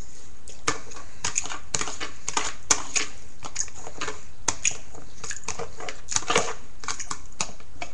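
Close-up chewing of a mouthful of rice: irregular wet smacks and clicks of the mouth, several a second, over a steady hiss.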